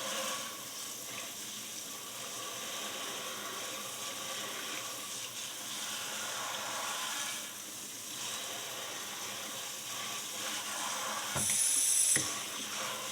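A handheld water jet sprays onto a dirt-caked horseshoe with a steady hiss of water, washing dirt out of the shoe and its nail holes. The spray gets louder for about a second near the end.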